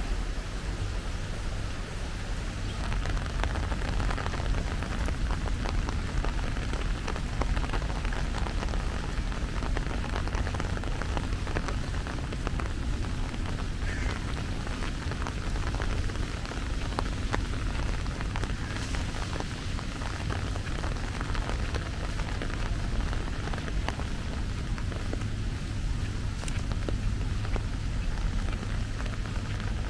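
Steady rain falling, a dense patter of drops over an even hiss, with a low rumble underneath.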